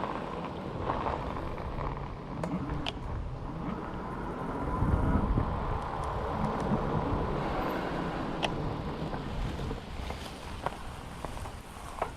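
Riding noise from a Himiway Cruiser electric bike: wind on the mounted camera's microphone and tyre rumble on the road, with a few sharp clicks and knocks from the bike and mount over bumps.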